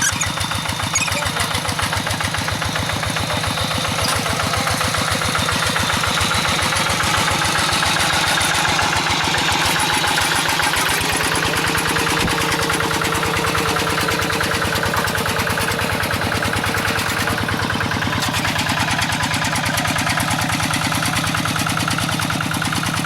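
Hand tractor's engine running steadily with an even, rapid chugging beat.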